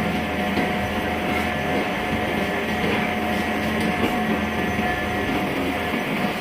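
Steady running noise of forge-shop machinery, a continuous mechanical rumble with a constant hum through it and no distinct hammer blows.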